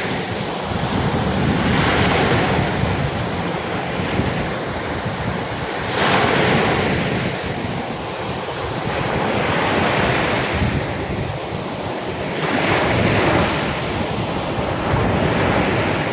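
Rough sea surf driven by an approaching storm, waves swelling and breaking on the beach every few seconds, with strong wind rumbling on the microphone.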